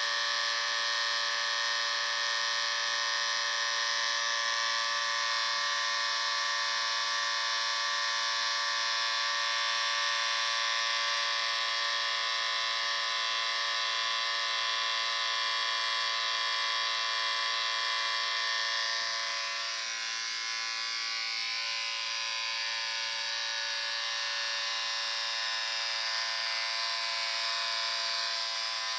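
Electric shaver motor running with a steady buzz, dropping slightly in level and tone about two-thirds of the way through.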